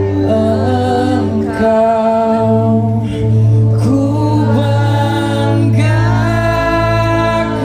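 Live pop band performance: a vocalist sings a slow, wavering melody over sustained chords and a steady bass.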